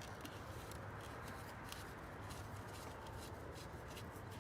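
Faint small clicks and scraping from a screwdriver working screws out of a plastic bumper grille, over a steady low hum.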